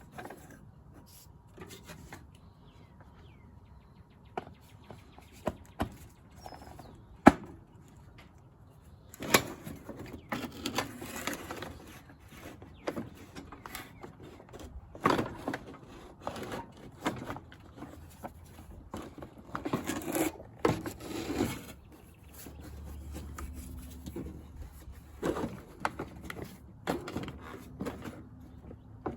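Intermittent clicks, knocks and rustling as the parts of a hand-operated seed and fertilizer spreader are handled and fitted back together, with one sharp click about seven seconds in.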